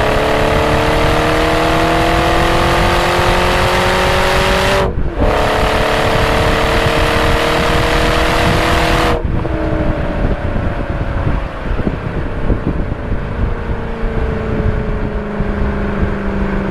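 BMW 545i's 4.4-litre V8 through a muffler-delete exhaust, pulling hard with the pitch climbing, then a quick upshift about five seconds in and another climbing pull. A little after nine seconds the driver lifts off and the exhaust note falls away steadily as the car coasts.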